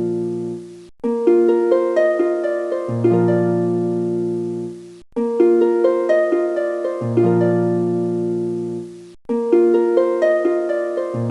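Background music: a gentle plucked-string melody over low bass notes. It is a short phrase that loops about every four seconds, with a brief break before each repeat.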